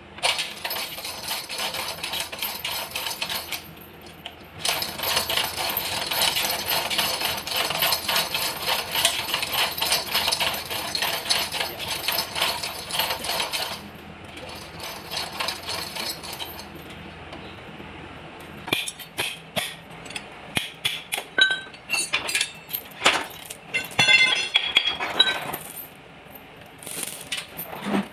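A power tool running in two long stretches, then metal tools and parts clinking and knocking in quick, separate strikes with short ringing, during a tractor engine teardown.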